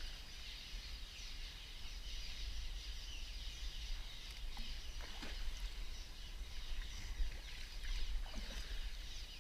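A flock of small birds chirping continuously, many short calls overlapping, over a steady low rumble.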